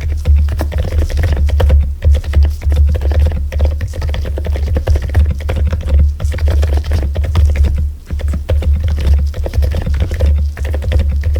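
Fast typing on a mechanical keyboard, a dense run of key clicks, over background music with a heavy steady bass.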